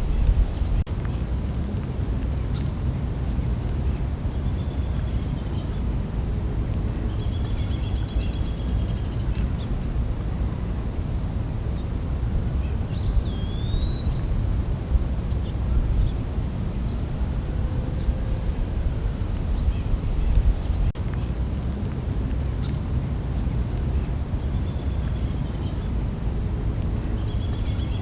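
Night-time forest insects: crickets chirping about three times a second over a constant high-pitched insect drone, with a few arching calls that come and go and a short whistled glide near the middle. A steady low rumble runs underneath.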